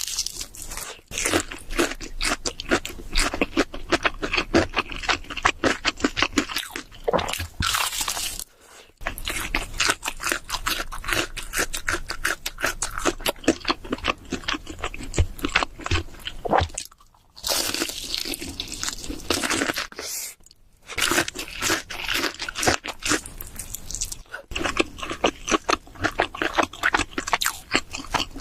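Close-miked eating of cheese seafood pizza: rapid crunching and chewing, with a few short pauses between mouthfuls.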